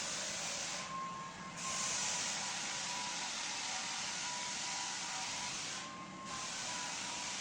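Dustless parquet floor sanding machine running steadily: an even hiss with a faint steady whine. It eases off briefly about a second in and again near the end.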